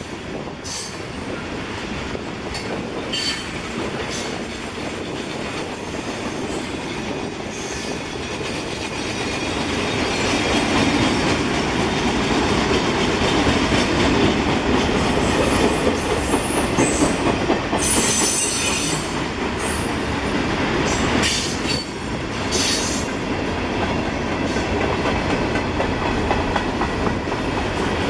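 Kansas City Southern freight train rolling past, wheels clattering over the rail joints, with short bursts of high-pitched wheel squeal. The train gets louder about ten seconds in.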